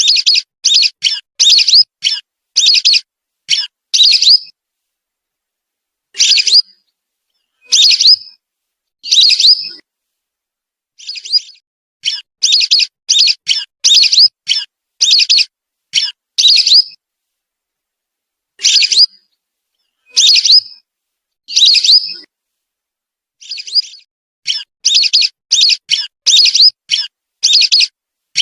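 Lure recording of whistling duck (belibis) calls: quick runs of short, high whistled notes, several to a run, broken by silent pauses of one to two seconds.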